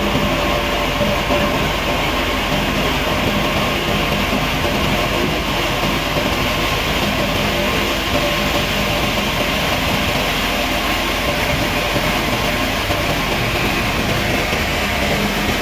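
Woodworking machine running steadily: a constant loud mechanical noise with a few faint steady tones in it.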